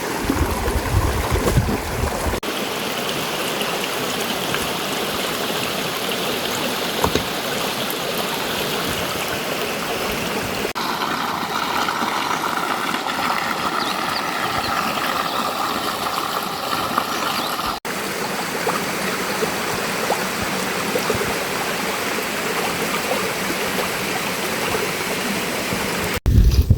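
Steady rushing of flowing water, like a stream. Its character changes abruptly at cuts about 2, 11 and 18 seconds in, and there is a heavy low rumble in the first couple of seconds.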